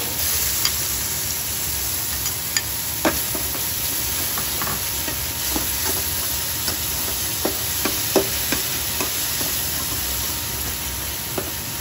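Blended chili paste sizzling in a little oil in a steel wok, fried until the oil separates, and stirred continuously with a metal spatula. Scattered sharp clicks come from the spatula scraping and tapping the pan.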